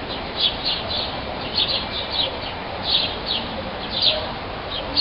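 Songbirds singing: a rapid series of short high chirps, each dropping slightly in pitch, over a steady background hiss.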